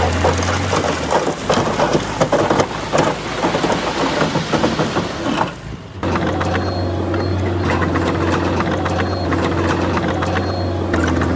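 A dense rush of crackling and knocking noise, then an abrupt change about six seconds in to a heavy diesel engine running steadily at a low, even pitch.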